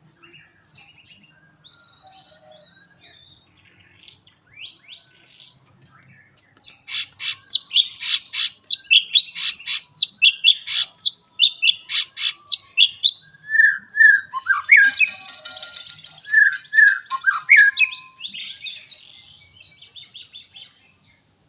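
White-rumped shama (murai batu) singing. It starts with soft, scattered phrases, then about a third of the way in breaks into a loud run of sharp, rapidly repeated high notes, several a second: the long 'tembakan' volley that keepers prize. Lower whistled notes mixed with harsher, buzzier ones follow, and the song dies away near the end.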